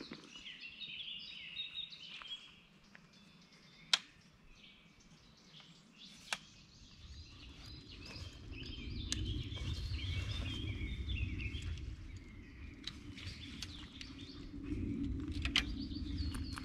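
Songbirds chirping and singing, with two sharp clicks about four and six seconds in. From about seven seconds a low rumble comes in underneath and stays.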